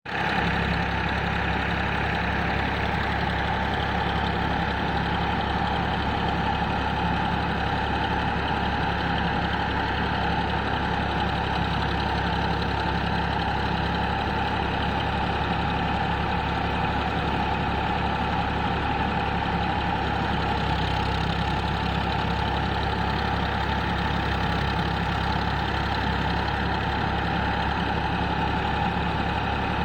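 Powertrac tractor's diesel engine running steadily at constant speed, driving a paddy thresher.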